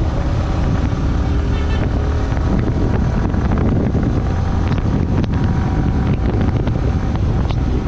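Motorcycle ride heard from the rider's microphone: steady wind rush buffeting the mic over the motorcycle's engine and road noise.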